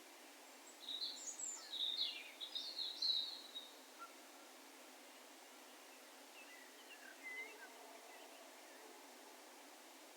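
Songbird calls over a faint steady outdoor hiss: a quick run of high chirping notes lasting about two and a half seconds, starting about a second in, then a few fainter, lower notes later on.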